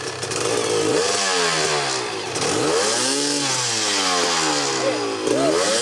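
Off-road vehicle engine revving hard as it drives through a river crossing, the revs dropping and climbing again about three times, with a steady hiss over the top.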